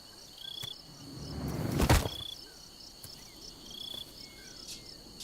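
Insects trill steadily, with a short chirp repeating about every one and a half seconds. About two seconds in, a whoosh swells and ends in one sharp thud: a seriema swinging its prey down and slamming it against the ground.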